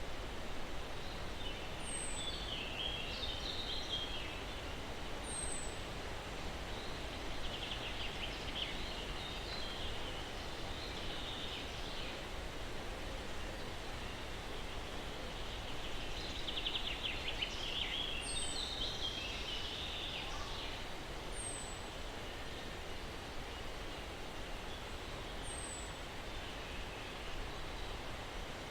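Steady breeze rustling through pine trees with a low rumble underneath. Songbirds sing in short twittering bursts a few times, and a thin, high, falling chirp repeats every three or four seconds.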